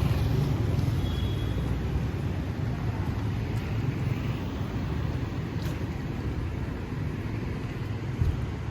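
Road traffic going by on a city street: a steady rumble of passing vehicles that eases off gradually, with a short knock near the end.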